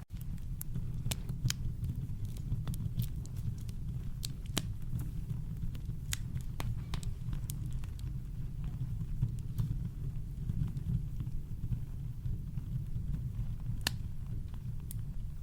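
Campfire crackling: scattered sharp pops and snaps over a steady deep rumble of brown noise. The sound cuts out for an instant right at the start.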